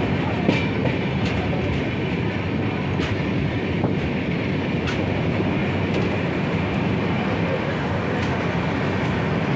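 Rajdhani Express passenger train running through a station, heard from aboard: a steady rumble of wheels and coaches, with scattered sharp clicks as the wheels cross rail joints.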